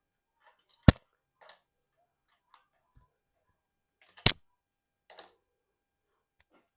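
Two sharp, loud clicks about three and a half seconds apart, with a few faint ticks between them, from hands-on work on a mountain bike's parts.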